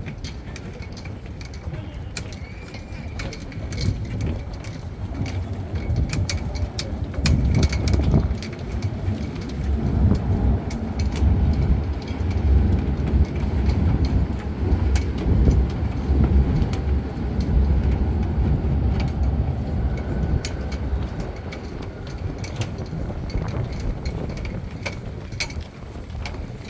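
A Docklands Light Railway train passing with a low rumble that builds to its loudest in the middle and eases off near the end, with scattered light clicks.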